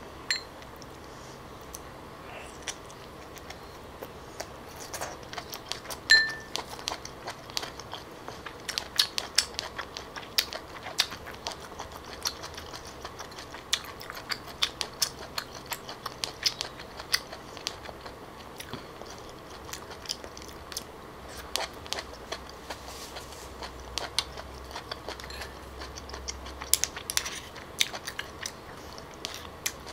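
Mukbang eating sounds: wet chewing and smacking mouth clicks while eating grilled clams, many short sharp clicks coming in quick runs, with one louder click about six seconds in.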